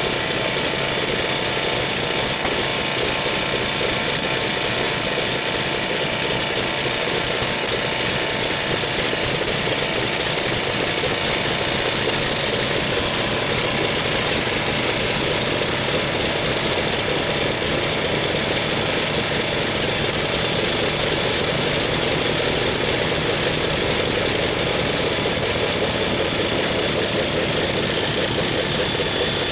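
An engine running steadily at a constant speed: a dense, unchanging noise with several steady tones in it.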